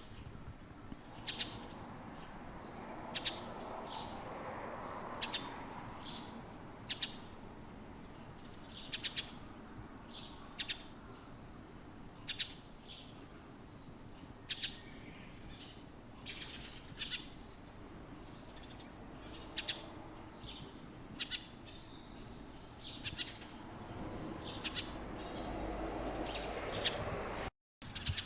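Small songbirds chirping: short, sharp chirps repeated about once or twice a second, over a faint low background rumble that swells twice.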